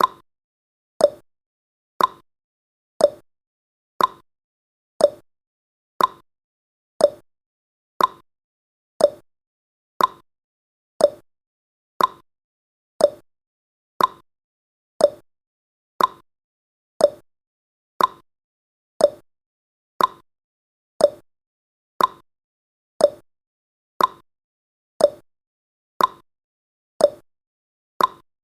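Clock-style tick-tock sound effect of a countdown timer: one short, sharp tick every second, alternating higher and lower in pitch.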